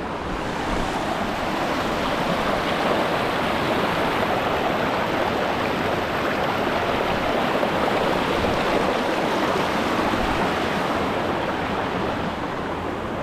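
Rushing water of a mountain burn pouring over a small dam, heard close up as a steady loud rush that swells a little in the middle and eases toward the end.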